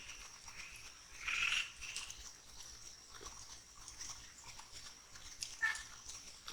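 Night forest sounds: a steady high-pitched insect drone, with scattered faint ticks and two short, louder animal sounds, one about a second in and one near the end.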